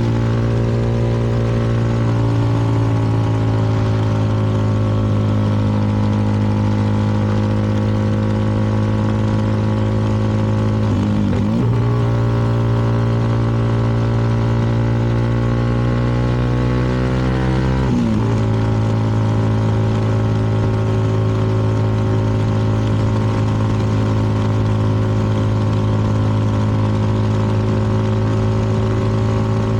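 CFMoto 300NK single-cylinder motorcycle engine running steadily under way, picked up by the helmet camera's own microphone. The engine note breaks and shifts briefly twice, about eleven and eighteen seconds in.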